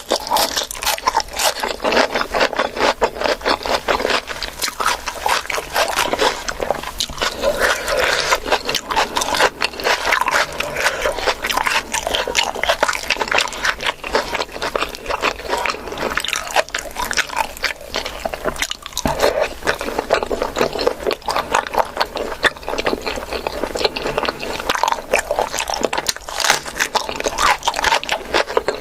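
Close-miked eating sounds: continuous chewing and crunching of food, with rapid wet clicks and smacks from the mouth.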